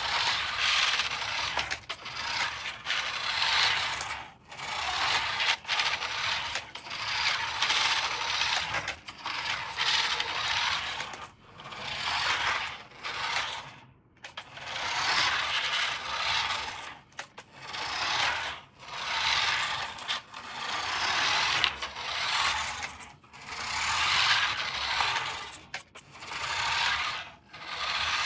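A toy and its packaging being handled, with scraping and rattling in repeated bursts of a second or two and short pauses between them.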